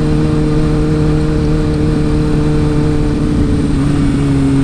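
Motorcycle engine running at a steady cruise under the rush of wind noise, its pitch easing down slightly about three and a half seconds in.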